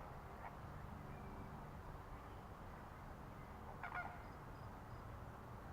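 Flamingos honking faintly: a single short call about half a second in, and a quick cluster of honks about four seconds in, over a low steady background rumble.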